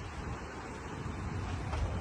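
Floodwater rushing in a steady roar, with wind buffeting the microphone in low gusts.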